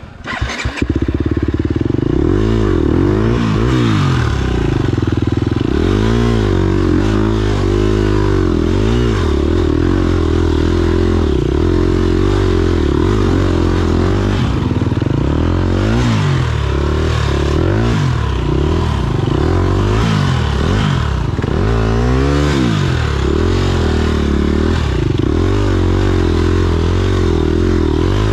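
Dirt bike engine revving up and down over and over, its pitch rising and falling every second or two, with some clatter.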